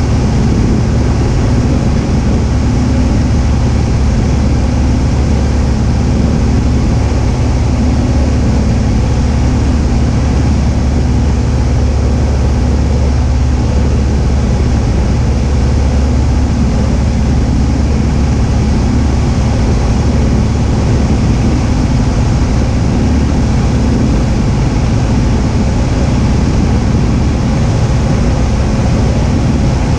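Cessna 172H's six-cylinder Continental O-300 engine and propeller droning steadily in flight: a loud, even low hum with a hiss over it that holds unchanged throughout.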